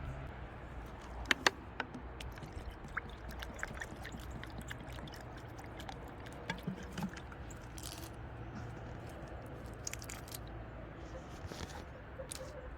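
Small birds at a seed feeder: scattered light taps and clicks of pecking and handling seeds, with two sharper clicks about a second and a half in and a few faint short chirps, over a steady low hum.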